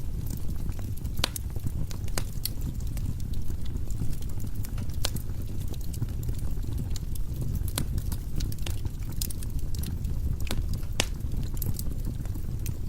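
Logs burning in a fireplace: a steady low rumble of the fire with irregular sharp crackles and pops from the burning wood, several every second or two.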